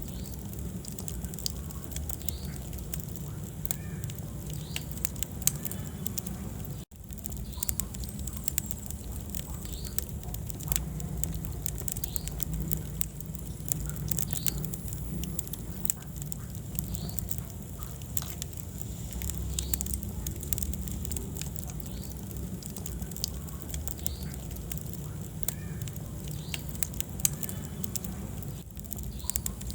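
Wood fire burning in a fireplace: a steady low rumble of flames with frequent sharp crackles and pops. The sound cuts out for an instant about seven seconds in.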